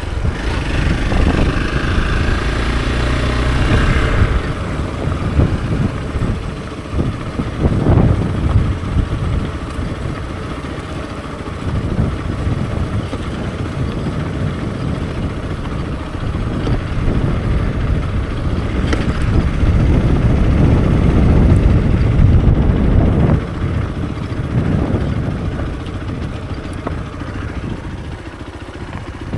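Hero XPulse 200 4V's single-cylinder four-valve engine running under way, its note swelling and easing as the throttle is opened and closed.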